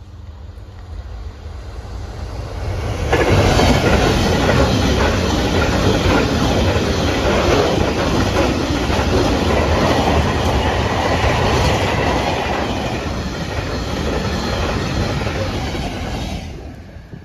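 Freight train passing close by, its wagons' wheels clattering steadily over the rails. The sound builds over the first few seconds, jumps up suddenly, stays loud, and cuts off abruptly near the end.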